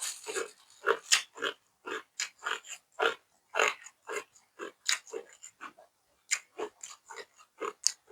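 Close-miked chewing: one person eats noisily with wet smacks and crunches, about three a second.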